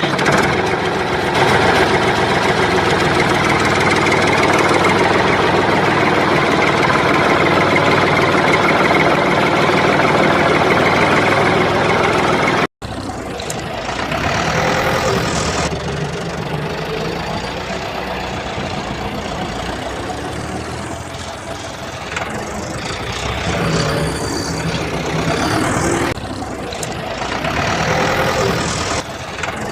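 Steady engine-like running of a machine. It cuts out abruptly about thirteen seconds in, then goes on quieter and more uneven.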